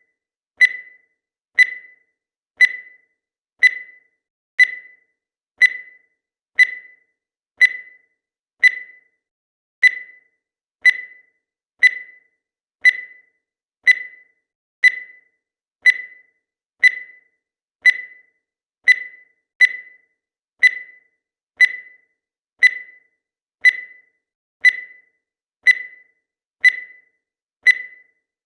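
Countdown timer's electronic tick: a short, high beep that fades quickly, repeating evenly once a second.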